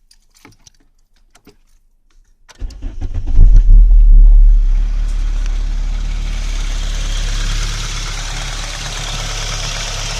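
A few light clicks, then about two and a half seconds in, a Mark III Volkswagen Golf's engine cranks briefly and catches, flaring up loudly for a second or two before settling to a steady idle. It is the first start after an oil change.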